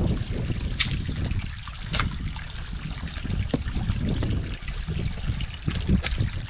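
Water trickling along a freshly dug drainage channel in mud, over a low rumble, with a few sharp clicks or scrapes about one, two, three and a half and six seconds in.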